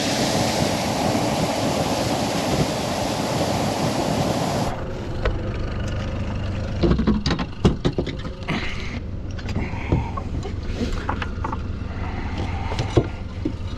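Boat motor running steadily with wind and water noise; about five seconds in the sound cuts to a lower rumble with scattered knocks and clatter.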